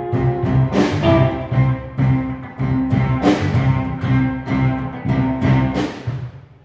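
A small acoustic ensemble is playing. Cello and double bass hold sustained low notes under regular strummed chords on a plucked string instrument. The music dies away near the end.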